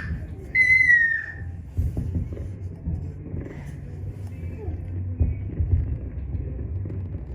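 Fireworks going off in the distance: a steady low rumble with a few dull booms. A brief high squeal falls in pitch about half a second in.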